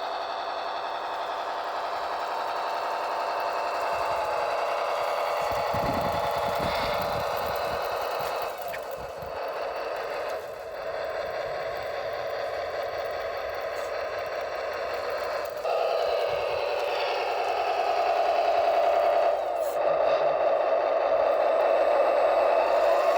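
The sound module of an RC Tatra 138 truck model, simulating a Tatra 928 diesel engine through a small speaker, running steadily. Its pitch shifts and it gets louder about two-thirds of the way in. A few brief low knocks come early on.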